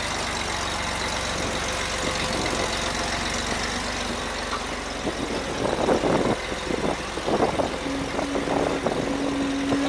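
Off-road vehicle engine running at low speed, with irregular louder scraping or crunching noises in the second half and a steady held engine note near the end.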